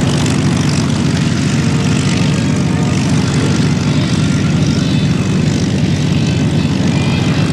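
Douglas C-47 Dakota flying past, its twin Pratt & Whitney R-1830 radial piston engines and propellers giving a loud, steady drone.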